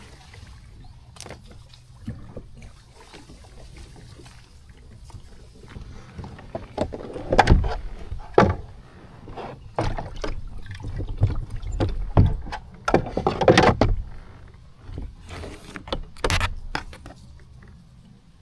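Kayak paddling: irregular paddle strokes splashing in the water with sharp knocks against the hull, busiest and loudest in the middle, quieter near the end.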